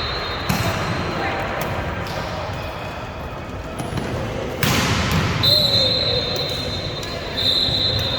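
Echoing gym ambience of a volleyball game: players' and spectators' voices, with a sharp ball smack about half a second in and a louder one near five seconds. A high steady tone sounds at the start and comes back for the last few seconds.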